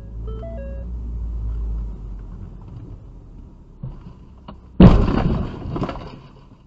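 Low road and engine rumble, then a sudden loud bang about five seconds in that dies away over a second or so, with a second knock a second later: a car collision heard from inside a dashcam car.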